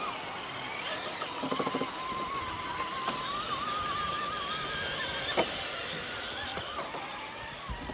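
Electric motor of an RC rock crawler whining, its pitch wavering as the throttle changes, with a few clicks and a sharp click about five seconds in as the truck works over the terrain.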